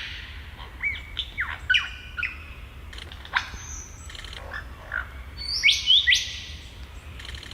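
Superb lyrebird singing a varied run of mimicked calls: clear whistles and quick sweeps that rise and fall, one after another, the loudest few about three-quarters of the way through. Right at the end a fast, even clicking begins, its mimicry of a camera shutter.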